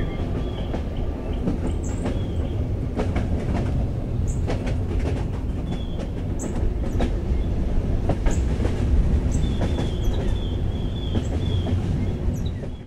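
Passenger train running over a steel viaduct: a steady heavy rumble with scattered clicks and knocks from the wheels, and birds chirping high above it. The sound fades out at the very end.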